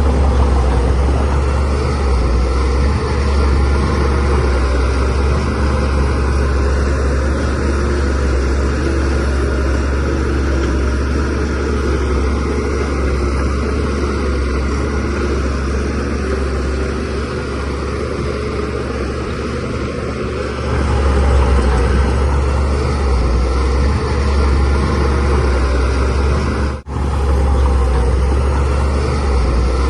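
Diesel engine of a DH17C3PRO bulldozer running steadily. It grows louder about two-thirds of the way through, and the sound drops out for a split second near the end.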